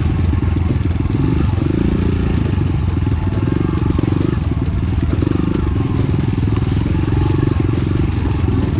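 Enduro motorcycle engine running steadily as the bike is ridden.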